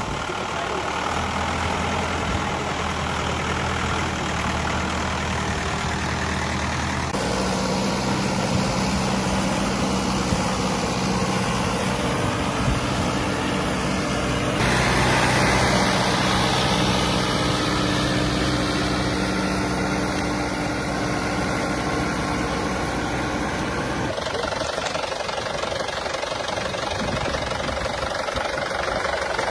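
Tractor engine running steadily, its pitch and tone shifting abruptly three times.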